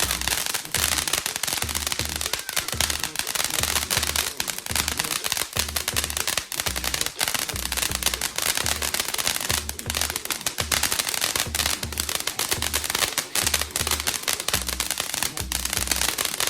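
A ground firework crackling and popping rapidly and without pause, like a string of small bangs. A steady bass beat from background music runs underneath.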